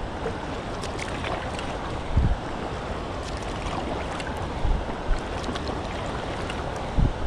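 Steady rush and splash of moving river water around a kayak, with a few short low thumps of wind on the microphone.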